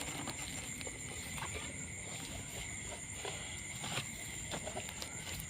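Insects chirring in a steady, high chorus, with a few scattered small clicks and knocks.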